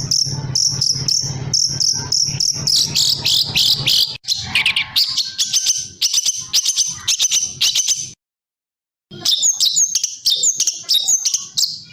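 A masteran recording of songbird calls: dense, fast, high-pitched chirps and trills layered together, with a low buzz beneath during the first few seconds. The calls break off for about a second of silence a little past the middle, then resume as a run of repeated sharp chirps.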